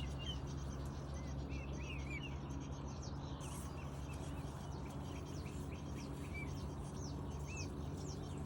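Swan cygnets peeping: short, high, arched chirps at irregular intervals, over a steady low hum.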